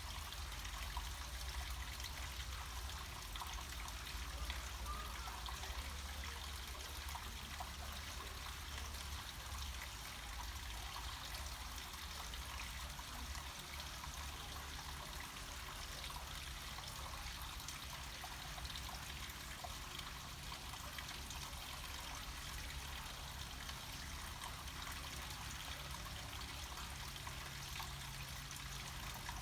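Small mountain stream trickling and splashing steadily down rocks, with a low rumble underneath.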